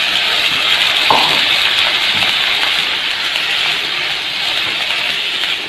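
Chopped tomatoes sizzling in hot ghee in a frying pan: a loud, steady hiss that slowly fades, with a single knock about a second in as a wooden spatula stirs them.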